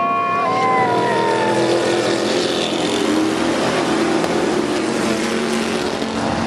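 A pack of IMCA stock cars and stock trucks accelerating together on a green-flag restart, many race engines running hard at once in a steady, loud mix.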